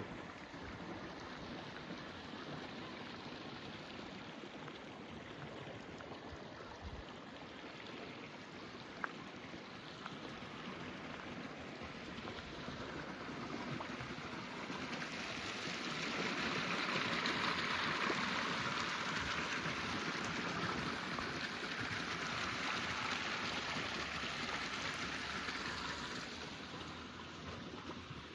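Water rushing in a stream, a steady hiss that grows louder for a stretch in the middle and eases again near the end. A single sharp click about 9 s in.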